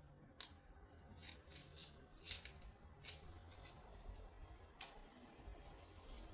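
Scissors snipping: about eight short, sharp cuts at irregular intervals, the loudest a little over two seconds in.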